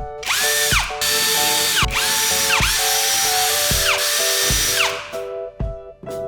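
A power tool's motor spinning up and winding down in repeated short bursts, each a rising then falling whine, over background music.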